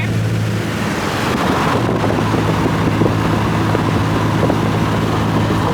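Vehicle driving: a steady low engine hum under road noise, with wind rushing over the microphone.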